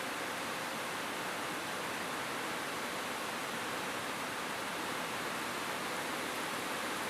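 Steady rain falling on a roof, an even unbroken hiss with no single drops or thunder standing out.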